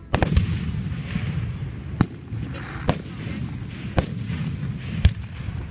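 Fireworks display: a quick cluster of bangs at the start, then single sharp booms roughly once a second, with a low rumble between them.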